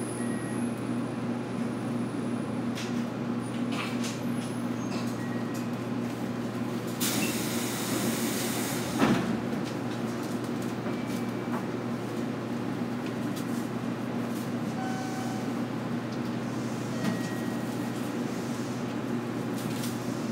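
Inside a JR Kyushu 811 series electric train at a station stop: a steady hum from the onboard equipment, a hiss of released air from about seven to eight and a half seconds in, then a sharp thump about nine seconds in as the passenger doors open.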